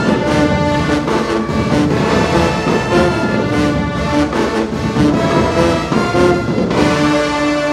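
Show-style high school marching band playing: brass section over marching drums, moving into a long held chord near the end.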